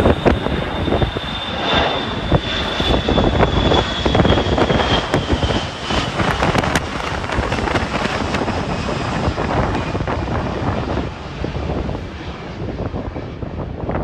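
Jet airliner passing overhead, its engines giving a steady rumble topped by a high whine that slowly drops in pitch, dying away near the end. Wind buffets the microphone throughout.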